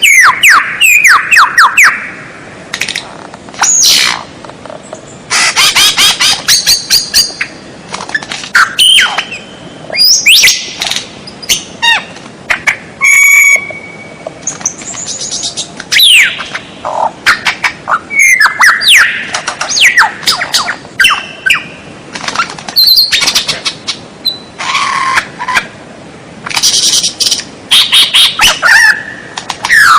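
White-rumped shama (murai batu) singing a varied, loud song of short phrases: quick sweeping whistles, rapid trills and harsh, buzzy notes, separated by brief pauses.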